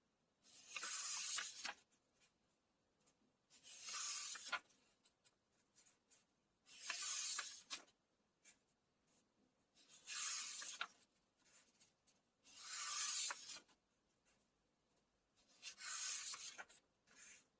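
Pages of a book being turned one at a time, each turn a papery swish of about a second, six times at a steady pace of about one every three seconds.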